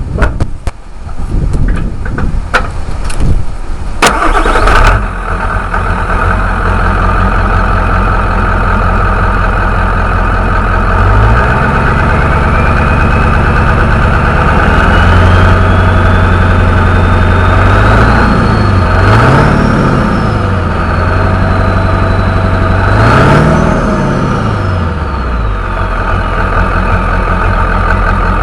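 1997 Ford F-250's 7.3-litre Power Stroke V8 turbo-diesel, with knocks and a burst of noise in the first few seconds before it runs steadily. From about eleven seconds in, the turbocharger whistle rises slowly in pitch, climbs higher with two brief revs, then falls away near the end.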